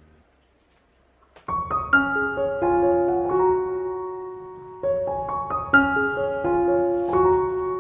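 Soft solo piano background music, beginning after about a second and a half of near silence.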